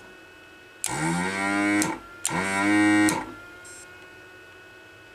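Pro'sKit SS-331 desoldering station's built-in vacuum pump run twice in short bursts of about a second each, each starting and stopping with a click.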